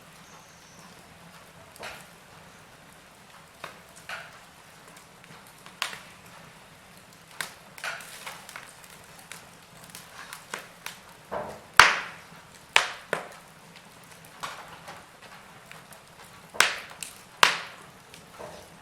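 Wood fire in a fireplace crackling: irregular sharp pops and snaps from the burning logs over a faint steady hiss, with the loudest pops about two-thirds of the way in and near the end.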